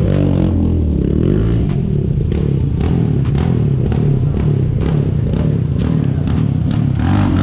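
Motorcycle engine running, its revs falling in the first second and then holding at a lower, wavering speed, with frequent sharp clicks over it.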